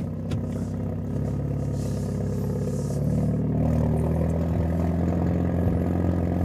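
Hyundai Avante N's turbocharged four-cylinder engine pulling steadily while driving. Its note grows louder about a second in and again about three seconds in.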